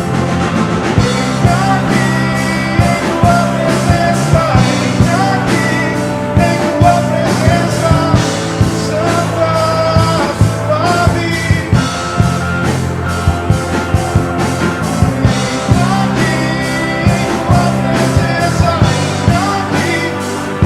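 Live worship band playing a song, a voice singing over a steady drum beat and a full band.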